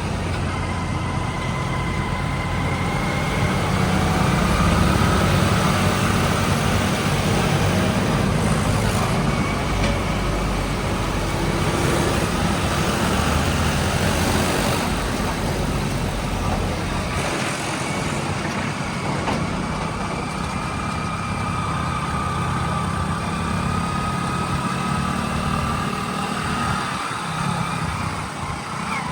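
Heavy diesel machinery running steadily, with faint whining tones drifting slowly up and down over a low engine rumble.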